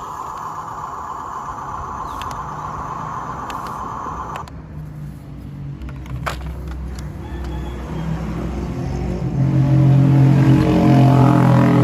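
Radio-controlled construction vehicle running: a steady electric motor and gear whine that cuts off suddenly about four seconds in, then a low rumble that builds and grows louder near the end.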